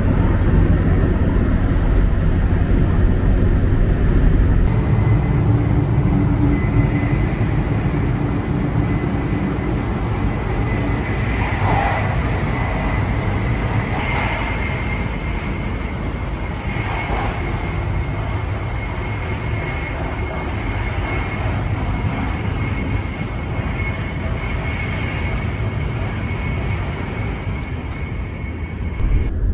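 Steady running noise heard inside a Hokuriku Shinkansen bullet-train car: a low, even rumble with a thin, steady high whine above it.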